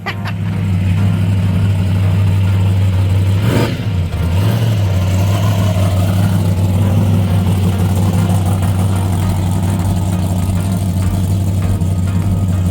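A vehicle engine running loudly at a steady speed, with a brief rise in pitch about four and a half seconds in.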